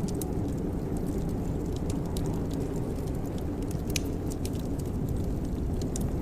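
Fireplace fire crackling: scattered sharp, irregular pops and ticks over a steady low rumble.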